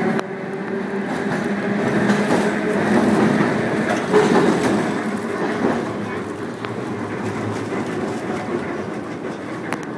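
New Orleans St. Charles line streetcar running on its rails: a steady rumble of steel wheels with a motor hum, and a few sharp clicks as the wheels pass rail joints. The rumble swells a little around the middle, then eases.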